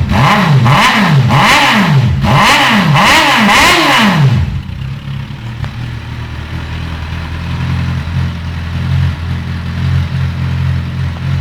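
Suzuki GSX650F's inline-four engine being blipped through a short exhaust: a quick run of about five or six loud revs, each rising and falling, then settling about four seconds in to a steady, quieter idle.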